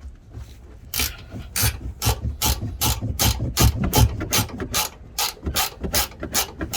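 Hand ratchet wrench clicking in a quick, even run of about four to five clicks a second, starting about a second in, as a suspension bolt is worked loose.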